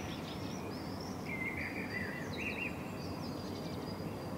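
Birds chirping in short, repeated calls over a steady low background hiss, with a thin high steady note running through the middle.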